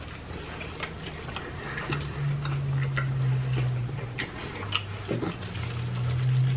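Close-up chewing of a bite of quesadilla: small wet mouth clicks and smacks scattered through, with a low steady hum that comes and goes.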